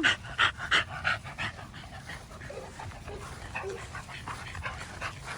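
Dog panting in quick, short breaths, loudest in the first second and a half and softer after that.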